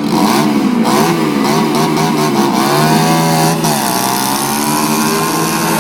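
Small motorcycle engine revving over and over, its pitch rising and falling with each blip of the throttle.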